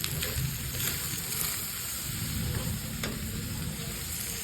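Chopped chicken sisig frying in a pan on low heat with its mayonnaise-soy sauce, sizzling steadily while a utensil stirs it and clicks against the pan a few times.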